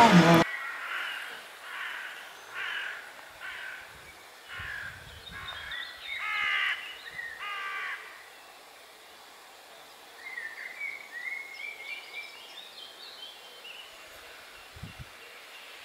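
A bird gives a run of about eight short harsh calls over the first eight seconds. From about ten to thirteen seconds in, a smaller bird follows with a high chirping twitter.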